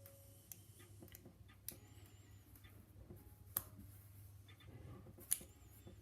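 Faint small metallic clicks of a padlock being worked by hand to get the C-clip off the back of its core, with three sharper clicks spread through.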